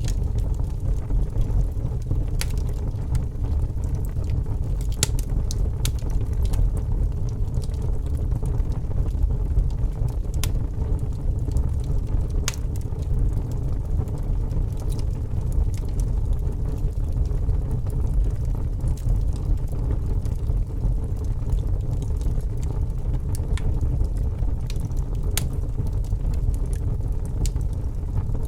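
Campfire burning: a steady low rumble of the fire with scattered sharp crackles and pops of the burning wood.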